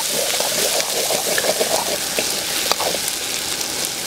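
Lobster pieces with onions and tomato frying in oil in an aluminium wok: a steady sizzling hiss, with a few light clicks.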